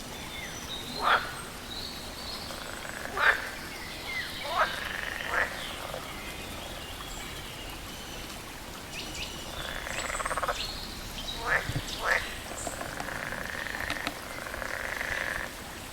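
Frogs calling: about six loud, short croaks that each sweep quickly down in pitch, with a buzzy pulsing chorus of other frogs swelling about ten seconds in and again near the end.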